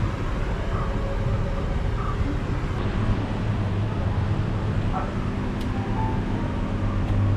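A steady low machine hum over background noise, unchanging throughout.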